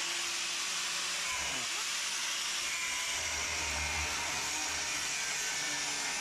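Power cutting tool running steadily as it cuts the rusty reinforcement panel off a Honda C100's pressed-steel frame, a continuous high hiss with a faint whine.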